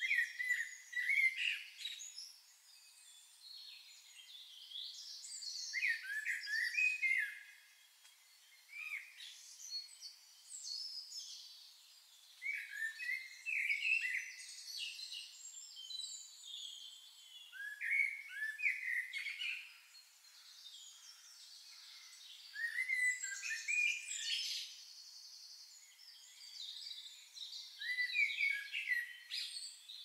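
Songbirds singing: short, bright twittering song phrases that come every four to six seconds, with quieter gaps between.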